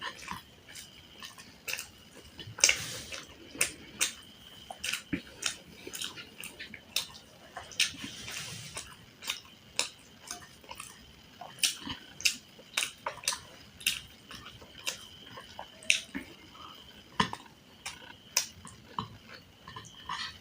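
Close-miked eating of a chicken curry and dal meal: wet chewing and mouth smacks with irregular sharp clicks, and now and then a brief clink against dishes.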